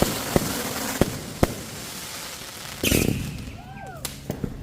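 Consumer fireworks being fired: several sharp bangs over a crackling hiss in the first second and a half, then a louder burst about three seconds in.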